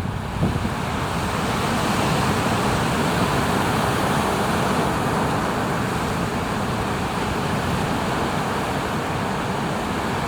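Heavy surf from a typhoon swell: a steady, unbroken wash of breaking waves.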